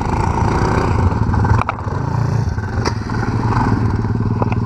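Small off-road engine running steadily at low revs, rising and falling a little, with a couple of sharp clicks.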